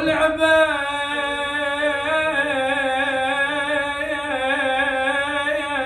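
A man's unaccompanied voice singing an Iraqi Husseini abudhiya, holding one long ornamented note with a wavering, trilling pitch.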